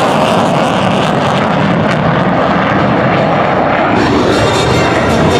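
Loud, steady jet noise from an F-15 Eagle's two turbofan engines.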